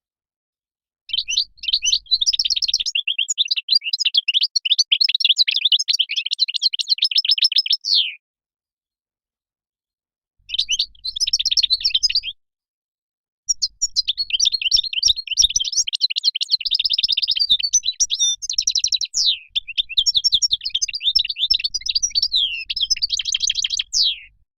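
European goldfinch song: fast, high twittering phrases in three bouts. The first starts about a second in and runs for some seven seconds, a short burst follows after a pause, and a long bout runs until just before the end, with dead silence between bouts.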